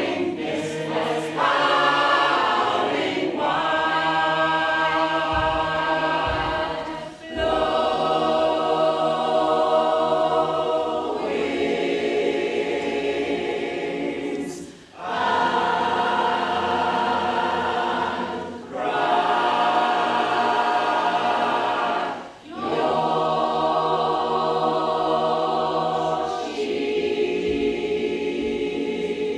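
A choir singing sustained chords in phrases of a few seconds each, with brief breaths between phrases.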